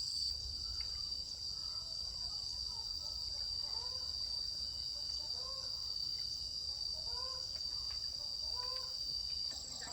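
Insects droning in a steady, high-pitched buzz, with faint short rising-and-falling calls now and then behind it.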